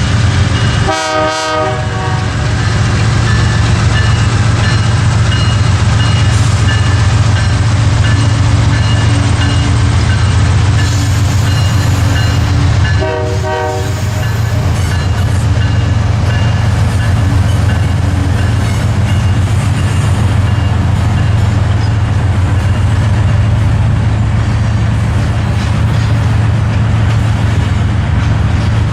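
A Canadian Pacific train rolling by with a steady heavy rumble. Its locomotive horn sounds two short blasts, one about a second in and one about 13 seconds in.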